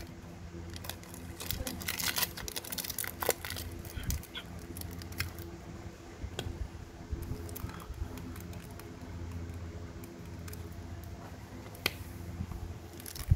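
Light clicks and taps from metal Zippo lighters being handled. They come in a cluster in the first few seconds and a few more near the end, over a low steady hum.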